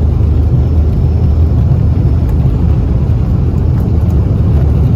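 Passenger airplane running during its runway 10 departure: a steady, loud, low rumble with no breaks.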